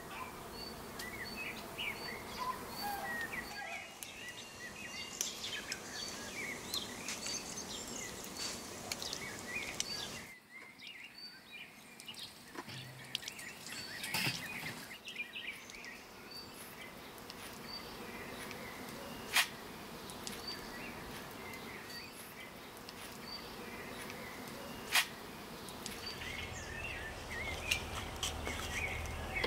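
Outdoor birdsong: several birds chirping, one repeating a short high note about every two-thirds of a second. Two sharp clicks stand out in the second half.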